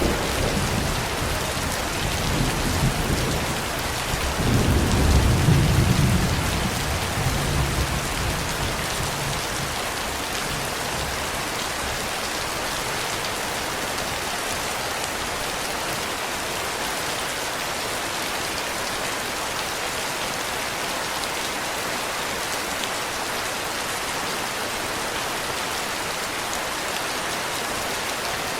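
Steady rain with a roll of thunder rumbling over the first several seconds, loudest about five seconds in, then dying away to the rain alone.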